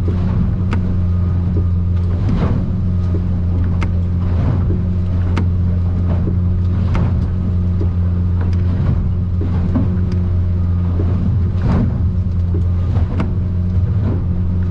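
Outboard engine of a Stabicraft 2050 Supercab aluminum boat running steadily under way in rough water, heard as a deep drone inside the cabin. Sharp knocks come about every second and a half over it.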